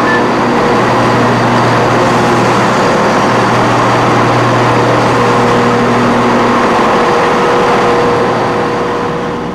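Train running, with a steady engine hum in several pitches over loud running noise; it eases off a little near the end.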